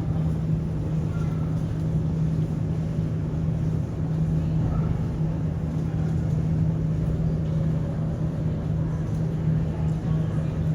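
Steady mechanical drone with a constant low hum, with a brief dip about four seconds in.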